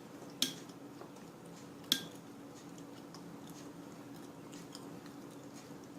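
Cutlery clinking against a dish twice, two sharp clinks about a second and a half apart, with a few fainter ticks, over a steady low hum.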